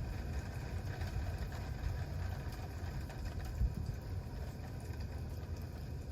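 Wood campfire burning: a steady low rumble with faint crackling, and a soft knock about three and a half seconds in.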